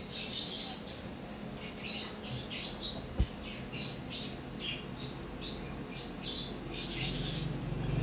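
Young bird squawking over and over in short, high-pitched calls while held and given medicine by cotton bud. One sharp click comes about three seconds in.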